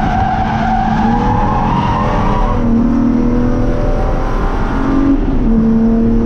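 BMW S50B30 inline-six of a 1995 E36 M3, heard inside the stripped cabin through a race exhaust, pulling hard under full throttle out of a corner. The tyres squeal in the first couple of seconds as the revs rise, then the engine runs on at high revs down the straight.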